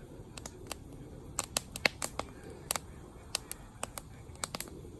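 Wood campfire crackling: irregular sharp pops and snaps, some louder than others, over a low steady rush of burning.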